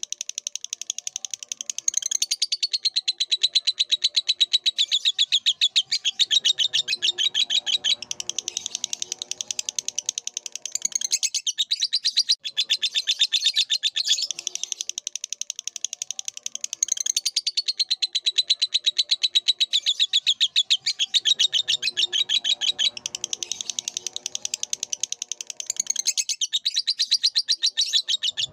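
Lovebird song: a long, unbroken run of rapid, high-pitched chattering. The same stretch of song seems to come round again about every fifteen seconds.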